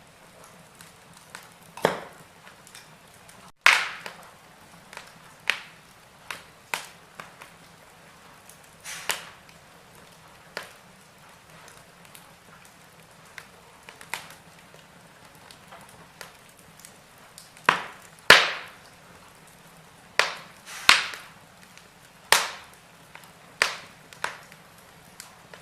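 Wood fire in a fireplace crackling: irregular sharp pops and snaps of the burning logs over a faint steady hiss. The loudest snap comes about two-thirds of the way through, followed by a quick run of pops.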